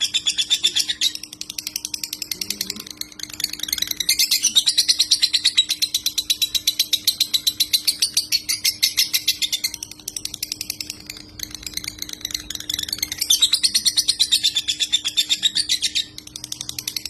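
Lovebird singing in long, fast chattering phrases, each a rapid run of sharp high notes lasting several seconds, with short breaks between them: the unbroken 'konslet' style of lovebird song. A faint steady hum runs underneath.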